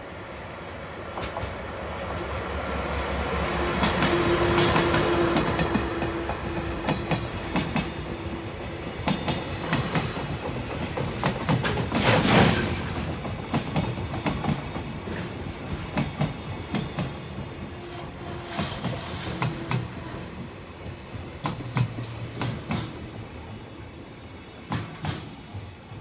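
Diesel-hauled freight train passing close by. The locomotive's engine swells to its loudest about five seconds in. A long string of container flat wagons then rattles past, its wheels clicking over the rail joints, and the sound fades near the end.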